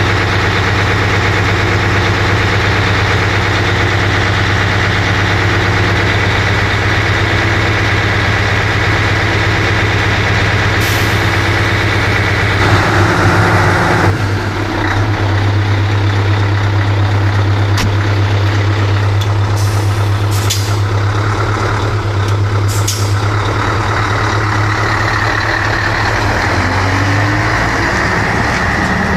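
Scania 143H's 14-litre V8 diesel running steadily at idle, with a short rush of air hiss about halfway through. The revs start to rise near the end.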